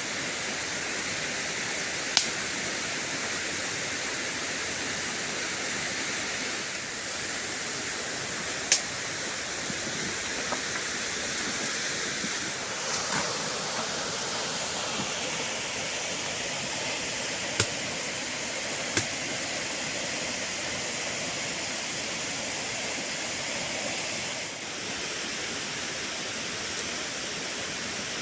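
Steady rushing of running water, with a few short sharp clicks standing out above it, one about two seconds in and others later on.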